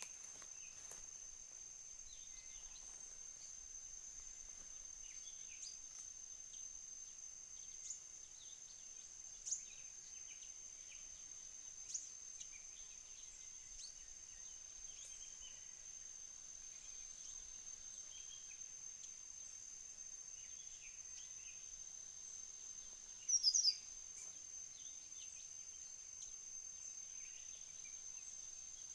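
Steady high-pitched insect trill, cicada or cricket, droning without a break, with scattered faint bird chirps and one short, louder chirp with a falling pitch about two-thirds of the way through.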